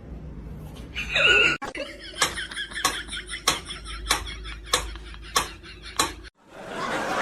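A short loud vocal sound, then a run of about seven sharp taps, evenly spaced at roughly one and a half a second.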